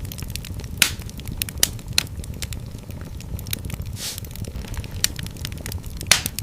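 Wood fire in a fireplace crackling, with irregular sharp pops over a steady low rumble of the flames. Two louder snaps come about a second in and near the end, and there is a short hiss about four seconds in.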